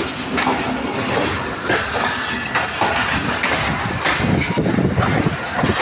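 Pakistan Railways passenger train rolling along the track, its wheels clattering over rail joints, heard from an open coach door.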